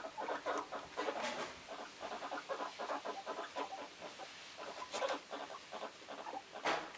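Guinea pigs vocalising in strings of rapid stuttering pulses, with a brief sharper noise near the end.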